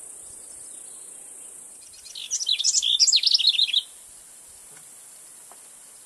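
A small bird calling in a quick burst of rapid, high chirping notes, starting about two seconds in and lasting about a second and a half.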